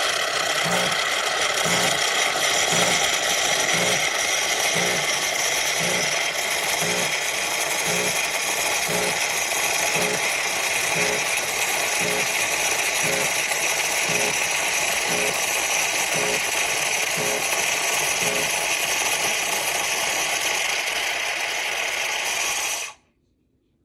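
A machine running loudly and steadily with a low pulse about twice a second, then cutting off suddenly near the end.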